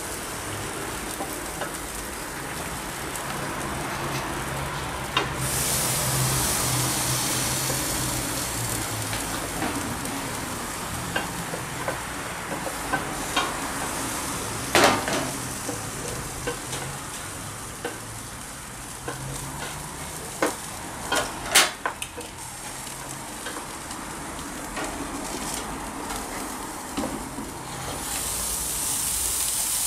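Food frying and sizzling in a pot while it is stirred, a steady hiss that swells in places, with a few sharp clacks of a utensil against the pot about halfway through.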